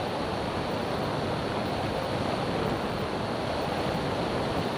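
Steady rushing cabin noise of a light airplane's engine and airflow during takeoff and climb.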